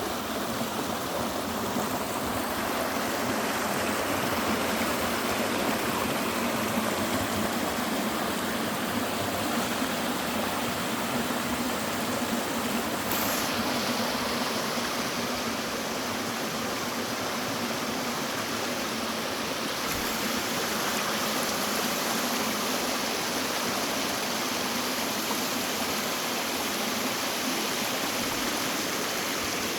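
Clear stream water running steadily, a continuous even rush with no breaks.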